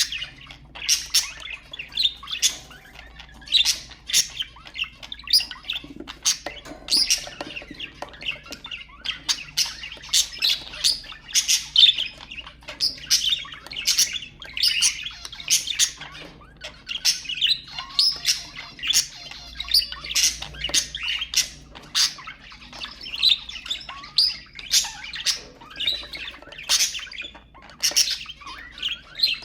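Budgerigars chattering: many short chirps and squawks in quick succession, with no break.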